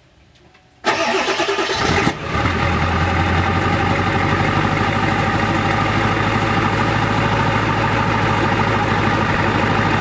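Ford Excursion's 7.3-litre Power Stroke V8 turbo-diesel cold-started at 26°F without preheating: about a second in, the starter cranks and the engine catches almost at once, dips briefly, then settles into a steady idle.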